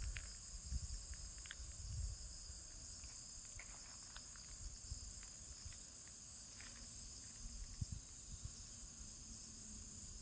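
Insects trilling in a steady high-pitched chorus, with faint scattered ticks.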